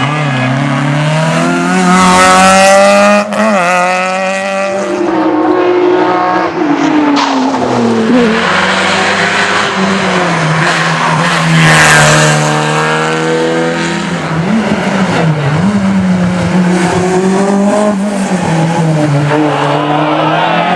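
Rally car engines revving hard at full throttle, the pitch rising and dropping with repeated gear changes as cars pass close. The loudest passes come about two seconds in and about twelve seconds in.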